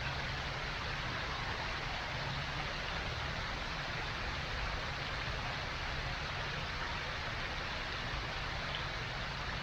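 Steady, even rushing hiss with a low rumble underneath, unchanging throughout.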